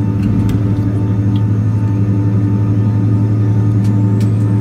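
Boeing 767-300ER cabin noise from a rear seat: the jet engines' steady low drone. A faint high whine rises slowly from about three and a half seconds in, and a few light clicks sound in the cabin.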